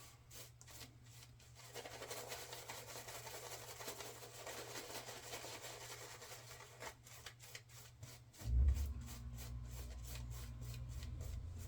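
Shaving brush working glycerin menthol soap lather, rhythmic swishing strokes about four a second. A steady low hum comes in about two-thirds of the way through.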